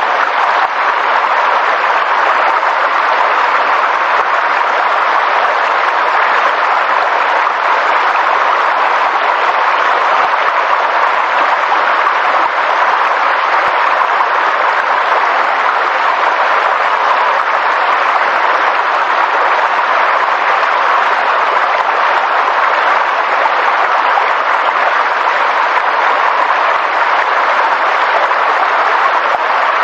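Steady, even hiss of water, unchanging throughout.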